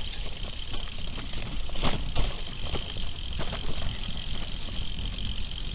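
Merida Silex 200 gravel bike rolling down a rough, rutted track, tyres on loose ground and the bike rattling, with sharp knocks over bumps, a couple of them around two seconds in.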